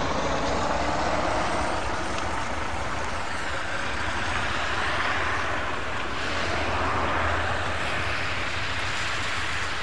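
Narrow-gauge train running steadily, heard from on board: a constant low drone and rumble.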